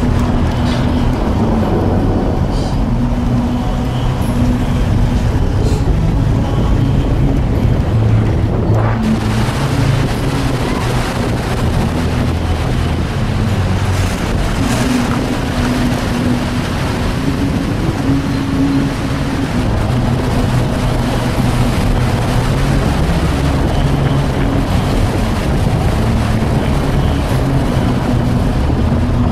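A road vehicle's engine running steadily under load, with its pitch shifting up and down as it drives a snowy mountain road, mixed with road and wind noise.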